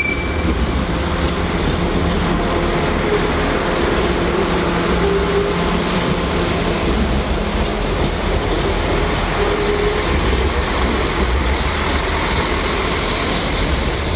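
A train moving through a station at the platform: a steady, loud rumble with a few level humming tones and occasional faint clicks.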